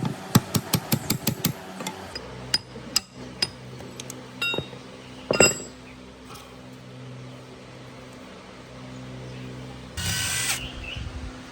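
Workshop metalwork sounds. A quick run of sharp metal taps lasts about two seconds, then a steady low hum with scattered clicks, a single ringing metal clank about five seconds in, and a short hiss near the end.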